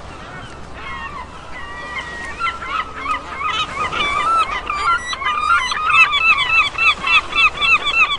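A flock of geese honking: many short, overlapping calls that grow denser and louder toward the end.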